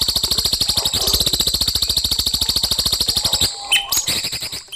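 A songbird's fast rattling trill of about fourteen notes a second, cut off about three and a half seconds in and followed by a few short chirps. It is recorded bird song of the kind used as masteran to train young white-rumped shamas.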